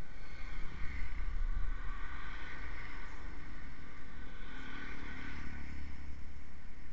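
Motorcycle running on the road, with a steady low rumble under the engine noise.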